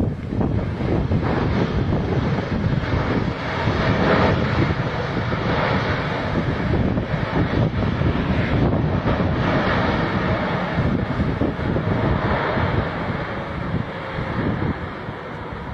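Engine noise of a passing jet airliner, a dense steady rush that swells a few seconds in and eases off near the end, with wind buffeting the microphone.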